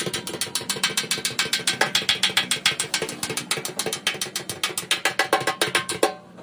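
Rapid, even clicking or tapping, about ten strokes a second, that stops suddenly near the end.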